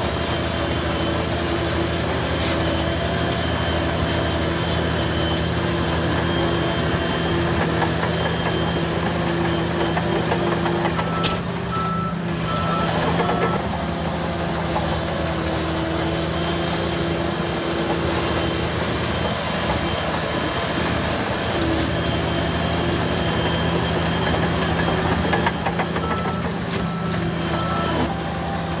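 Heavy diesel engines of earthmoving machinery running steadily, with a reversing alarm beeping in two short runs of evenly spaced beeps, one about a third of the way in and one near the end.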